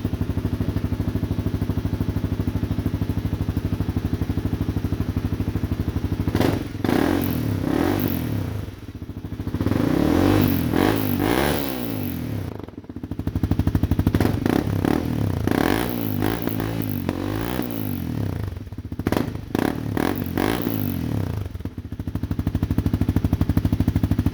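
2015 Honda CRF250L's single-cylinder four-stroke engine running through an FMF Q4 quiet-series exhaust, warmed up: it idles steadily, then is revved several times from about six seconds in, the pitch rising and falling with each blip, and settles back to idle near the end.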